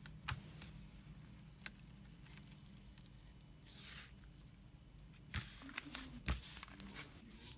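Hands squeezing and handling slime: soft squelches and sticky clicks. They come once early on and then in a quick cluster over the last two seconds.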